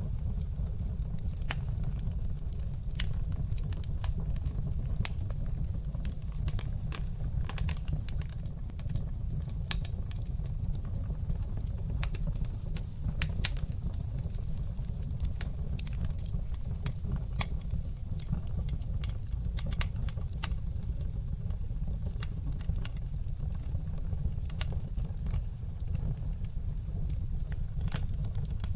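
Fire burning in a fireplace: frequent irregular sharp crackles and pops over a steady low rumble from the flames.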